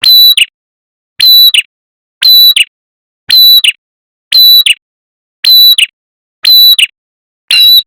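Looped bird-lure recording of a red-headed prenjak (prinia-type warbler) call: one short, high chirp repeated eight times, about once a second, every call alike, with dead silence between.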